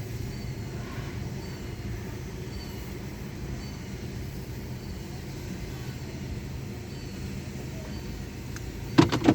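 Car wash tunnel machinery running with a steady low hum and a faint high squeak repeating about every three quarters of a second, then two loud clanks in quick succession near the end.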